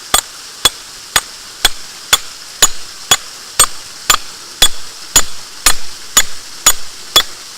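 Rock hammer striking hard layered rock about two times a second in a steady rhythm, each blow a sharp ringing clink. The stone is rock hard and barely gives.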